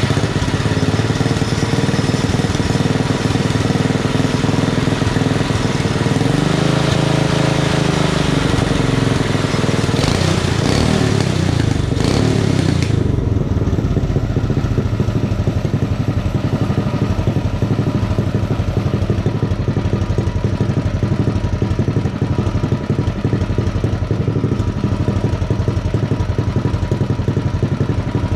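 Predator 212cc single-cylinder mini bike engine running on its first start after a build with the governor removed. It is revved up and down several times from about six to twelve seconds in, then settles to a steady idle.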